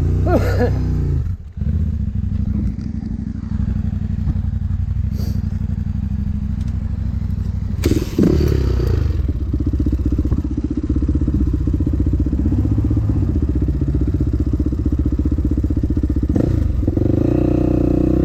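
Dirt bike engine running under load on a trail, with a brief dip in power early on. There is a sharp knock about eight seconds in, then the engine holds a higher pitch and picks up again near the end.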